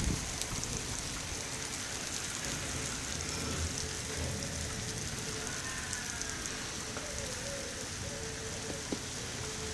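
Steady rain falling during a thunderstorm, with scattered individual drops striking close by.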